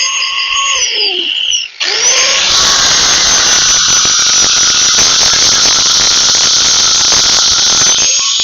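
High-speed power tool running with a high-pitched whine. It winds down about a second and a half in, then starts again almost at once with a quick rising whine. It runs steadily at high speed with a rough hiss underneath, then briefly dips and picks up again near the end.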